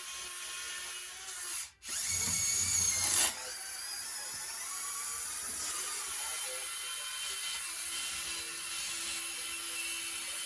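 Small electric motors of a radio-controlled model construction machine whining steadily as it works, with a louder spell from about two to three seconds in where the whine shifts in pitch and a low rumble joins it.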